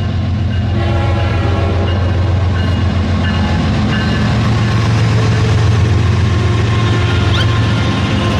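A train running with a steady low rumble, a simple tune of plain electronic-sounding notes playing over it, and a short rising chirp near the end.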